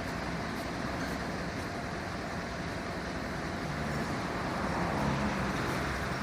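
A fire vehicle's engine running steadily, with a slight rise in level about four to five seconds in.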